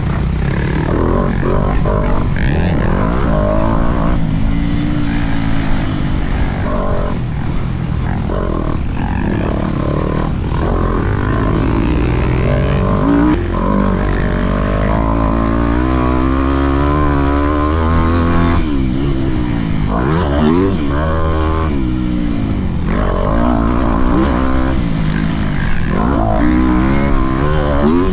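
Motocross bike engine revving hard and easing off again and again, its pitch climbing and dropping as the rider accelerates, shifts and brakes around the track.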